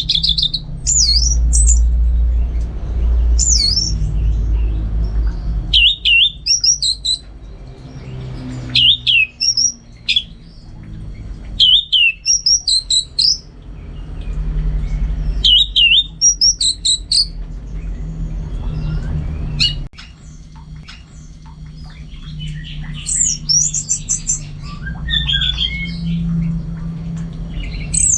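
Orange-headed thrush singing: short, varied whistled phrases that slide up and down in pitch, one every second or two, with a denser run of quick notes near the end. A steady low hum runs underneath.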